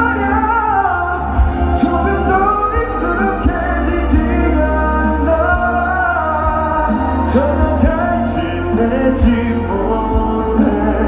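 Live ballad music through a PA: band accompaniment with a steady bass under a male singer's long held notes, closing out the song.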